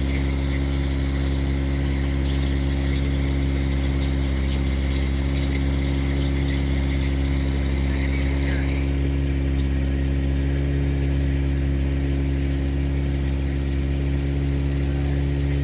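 Motorboat engine running steadily at constant speed, a low, even drone.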